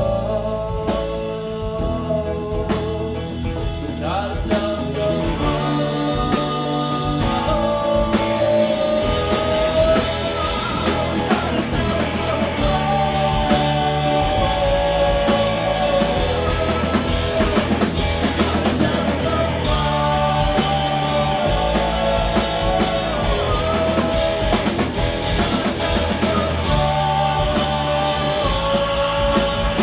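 Live rock band playing: electric guitar, bass and drum kit, with long held melodic lines over a steady beat.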